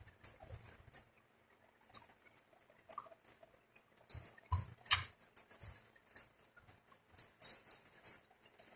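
Scattered light clicks and taps of small parts and tools being handled while a cold spark machine is taken apart, with a sharper knock about five seconds in.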